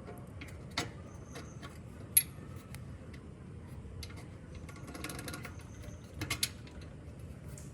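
Scattered sharp mechanical clicks and light knocks from small parts being handled and worked by hand, over a faint low hum. The loudest click is about two seconds in, with a small cluster around the middle and two more a little later.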